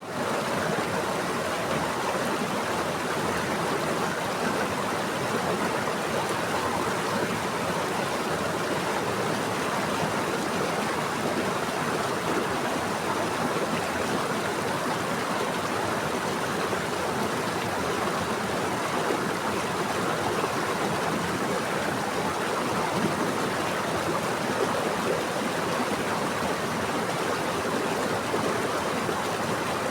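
Running water of a stream or small waterfall, flowing steadily without a break; it fades in at the very start.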